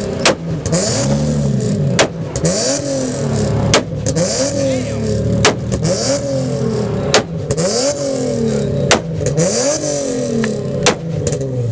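Infiniti G37's V6 exhaust revved over and over in quick blips, each one rising and falling in pitch and set off by a sharp bang, about seven in a row, as the car is revved to shoot exhaust flames. Very loud at the tailpipe, loud enough to hurt the ears.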